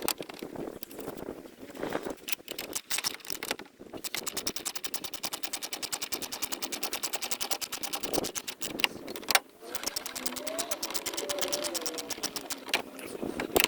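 Rapid, evenly spaced ratcheting clicks, about ten a second for several seconds, from a tool driving the panel screws back in, with scattered single clicks and knocks around them.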